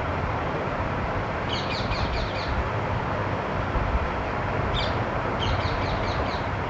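Two short runs of quick, high bird chirps, each of about five or six notes, over a steady rushing background noise.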